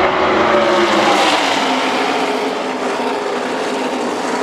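A pack of NASCAR Truck Series trucks racing past at speed, their V8 engines making a loud layered drone whose pitch falls as they go by.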